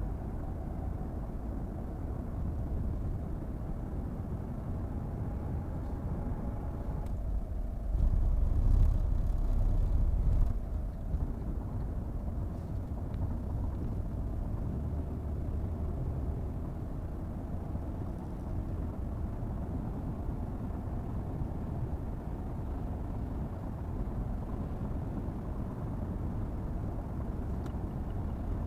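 A car driving: steady low road and engine rumble, louder for a couple of seconds about eight seconds in.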